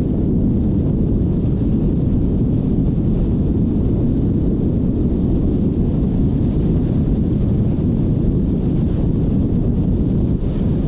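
Strong wind blowing over sea surf, heard as a steady, low rumbling rush of noise.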